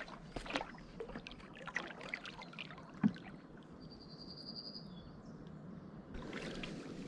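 Canoe paddling: small splashes and drips from the paddle, with one sharper knock about three seconds in. A short high bird trill comes midway, and a steady hiss of running water rises near the end.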